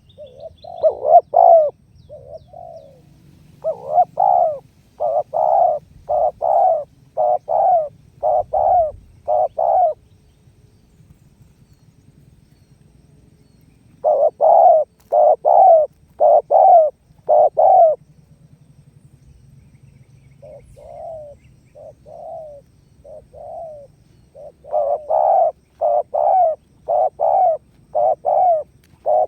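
Spotted dove (tekukur) cooing in its 'menguku' call: bouts of short, evenly repeated coos, a little over one a second, broken by pauses of a few seconds. A run of fainter coos comes about two-thirds in, then a loud bout near the end.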